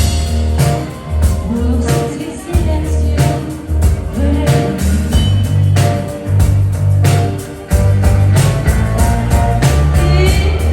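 Live rock band playing, with heavy bass notes, a steady drum beat and sustained synth and guitar lines, and a sung vocal.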